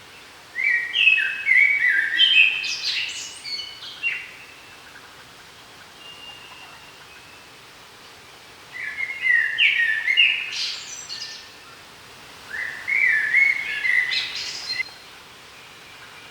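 A songbird singing three loud phrases, each a quick run of stepped whistled notes that climbs into a high flourish, the first about half a second in, the other two in the second half. A faint steady hiss of the forest lies underneath.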